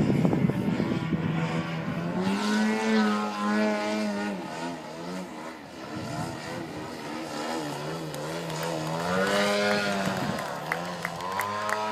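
Large radio-controlled model airplane's engine running in flight, its pitch rising and falling several times as the plane changes throttle and passes by, with a quick drop in pitch near the end.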